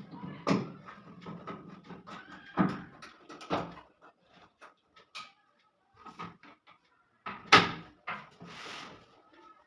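Knocks and clatter of parts being handled and fitted on a front-load washing machine's cabinet. Four sharp knocks stand out, the loudest about two thirds of the way in, followed by a brief scrape.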